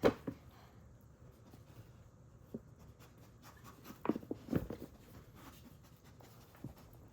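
Scattered soft taps and rubbing with a few sharp small clicks, busiest about four to five seconds in: hands handling and slapping cooked somen noodles.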